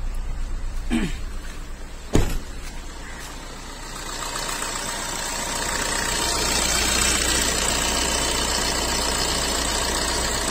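Maruti Suzuki Ertiga engine idling with its freshly recharged AC system running. There is a single sharp knock about two seconds in. From about four seconds in, a steadier, louder hiss and whir comes from the open engine bay over the engine's low pulse.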